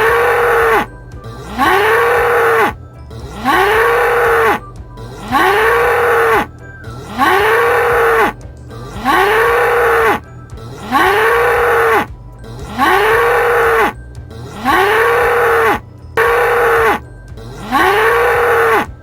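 An ox mooing over and over, about ten long calls at even spacing. Each call rises and then falls in pitch.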